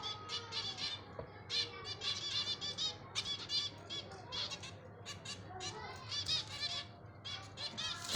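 Green Indian ringneck parakeets chattering in quick runs of short, high-pitched chirps.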